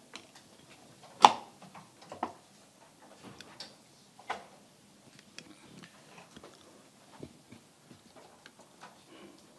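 Scattered small clicks and knocks in a quiet meeting room. One sharp knock comes about a second in, and smaller ones follow every second or so.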